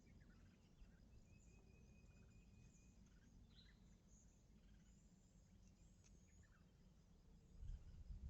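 Faint outdoor ambience of scattered bird calls and chirps, including one thin steady whistled note held for about two seconds, over a low rumble that grows louder near the end.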